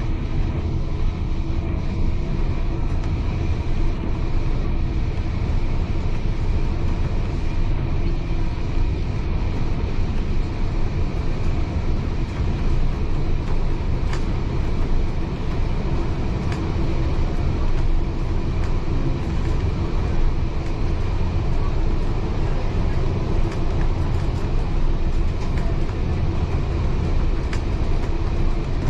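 Heritage railway carriage running steadily along the track, heard from inside the carriage: a continuous low rumble with a few faint clicks.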